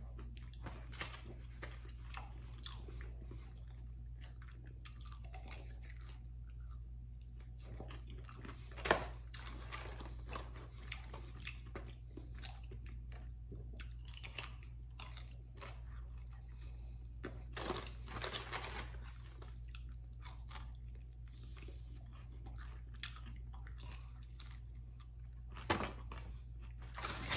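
A man biting and chewing chicken wings: soft scattered clicks and crunches of the meat being torn and chewed, over a steady low hum. There are louder sharp crunches about nine seconds in and again around eighteen seconds.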